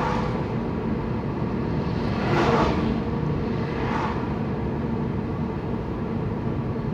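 Car driving along a road: steady engine and tyre rumble, with short swells of passing traffic at the start, about two and a half seconds in (the loudest), and near four seconds.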